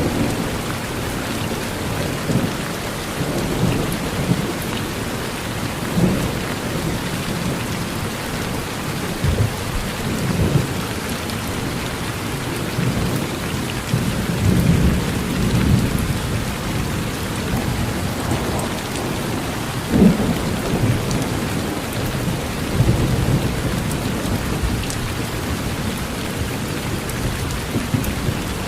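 Steady rain falling on a porch, with low rolls of thunder rumbling repeatedly underneath; the loudest rumble comes about two-thirds of the way through.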